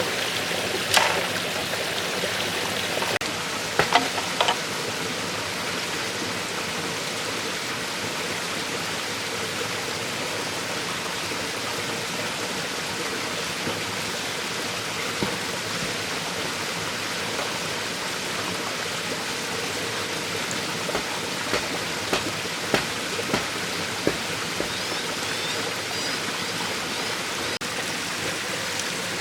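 A steady rushing like running water, with a few sharp knocks or clicks scattered through it, the loudest about a second in and a cluster around four seconds in.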